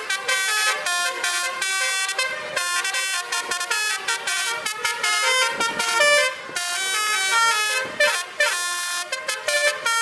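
Truck's basuri musical air horn playing a quick tune of short, stepped notes, with a few pitch glides about eight seconds in.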